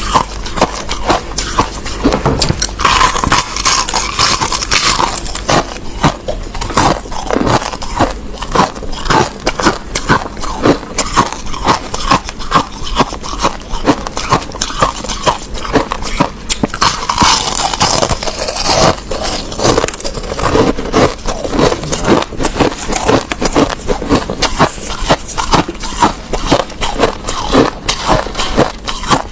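Crushed ice being chewed, close to the microphone: a dense, irregular run of sharp crunches and crackles, with louder, busier stretches about three seconds in and again about seventeen seconds in.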